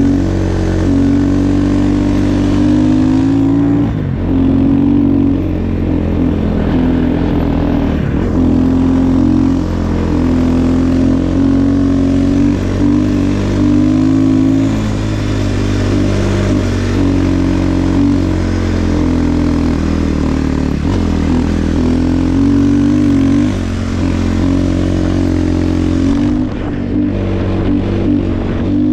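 Snow bike engine running under way, its pitch rising and falling with the throttle, with brief let-offs about four, eight and twenty-six seconds in.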